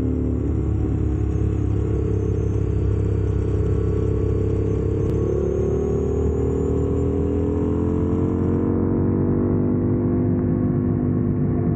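Motorcycle engine running under way over a steady low rumble of wind and road noise, its pitch climbing slowly from about halfway through as the bike gathers speed.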